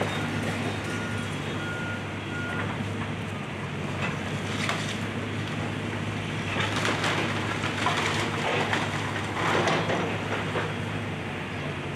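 Diesel excavator engine running steadily. A backup alarm beeps for the first couple of seconds, then debris crunches and cracks as the house is demolished.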